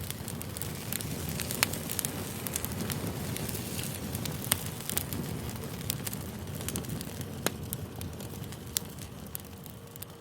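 Campfire crackling: a steady low rumble of burning wood with many sharp pops, a few of them loud, easing off slightly near the end.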